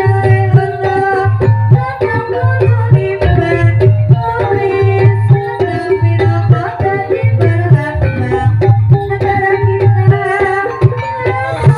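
Banyumasan gamelan music accompanying an ebeg dance: drum strokes beating steadily under repeating pitched metal-percussion notes.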